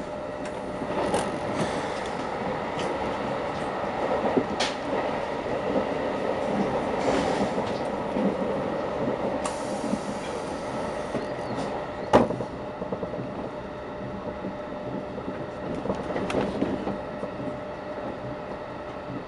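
Running noise of a moving train heard from inside the carriage: a steady rumble of wheels on rail with a steady hum. A few sharp knocks cut through, the loudest about twelve seconds in.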